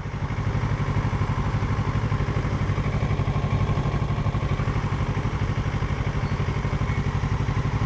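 Parallel-twin motorcycle engine running steadily with an even, pulsing beat and no change in pitch.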